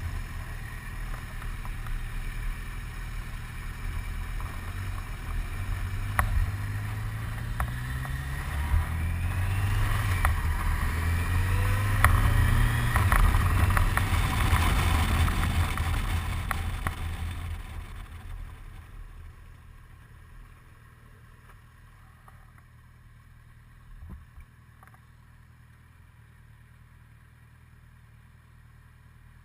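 Motorboat engine out on a lake, passing by: its hum builds and rises in pitch, is loudest about halfway through, then fades away into faint quiet. A single small knock sounds near the end.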